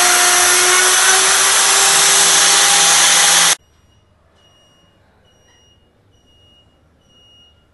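CNC router spindle running and milling wood, a loud steady whine over cutting noise that stops abruptly about three and a half seconds in. After that only a faint high tone is heard, repeating about once a second.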